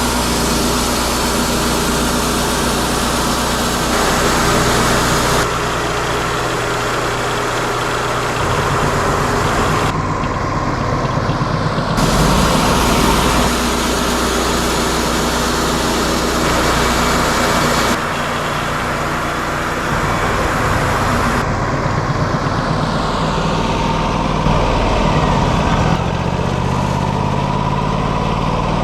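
Wood-Mizer LT40 Hydraulic portable sawmill running steadily, its engine droning under a hiss of the band blade sawing through a ponderosa pine log. The sound shifts abruptly several times.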